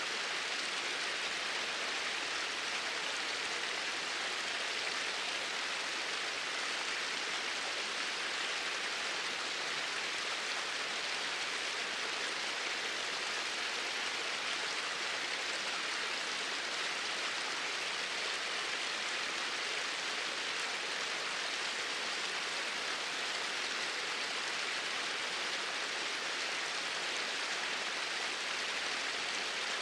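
Steady, unbroken rush of flowing water, even in level throughout.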